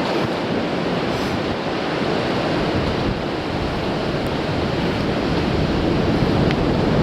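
Sea surf washing against a rocky shore, mixed with strong wind rumbling on the microphone: a dense, steady rush that swells slightly near the end.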